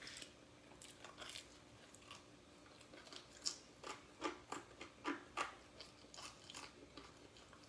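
A person chewing Domino's bread close to the microphone, with a run of quick wet mouth clicks and smacks that is busiest in the middle.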